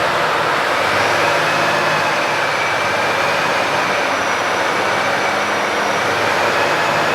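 Volvo FH460 truck's 13-litre six-cylinder diesel idling steadily, with a faint high whine above the engine note.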